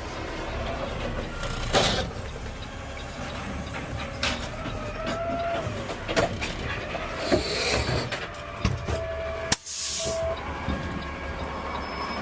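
Cab noise of a Peterbilt 520 CNG automated side-loader garbage truck: the engine runs with a steady low rumble, under scattered clanks and rattles and a few brief squeals.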